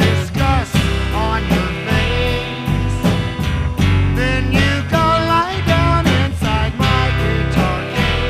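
Rock song played by a full band: a steady drum beat, bass and guitar, with a melody line that bends in pitch.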